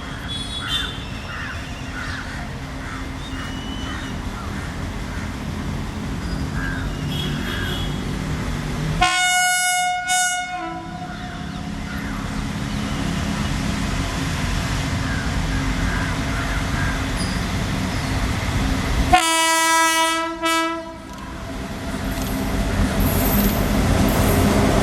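Indian Railways WAP-7 electric locomotive sounding its horn twice: a blast about nine seconds in and a longer one about ten seconds later, over the steady rumble of the running train growing louder.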